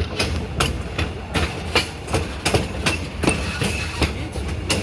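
Railroad passenger car rolling along, its wheels clicking over the rail joints about two and a half times a second over a steady low rumble. A faint high squeal comes in briefly about three seconds in.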